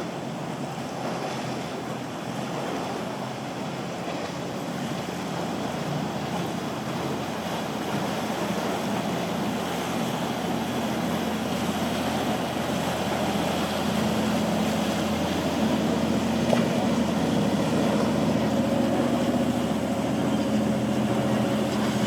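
Boat engine running and getting louder as a boat comes closer, over the wash of waves and wind.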